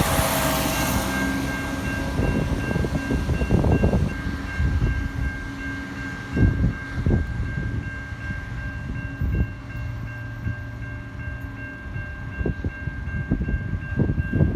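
Rail work trucks running along the track and moving away: their running noise fades over the first couple of seconds, leaving a steady high tone and a low hum. Wheels knock over rail joints at irregular intervals.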